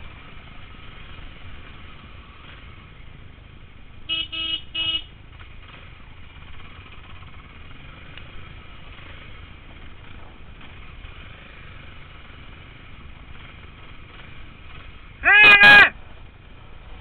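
A motorbike engine running low and steady in the background. About four seconds in there are two short horn beeps, and near the end a loud brief sound whose pitch rises and falls.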